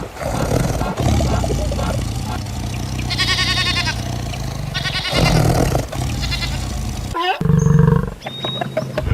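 Bleating livestock: several wavering bleats, the clearest about a third of the way in and again past the middle, over a steady low background rumble.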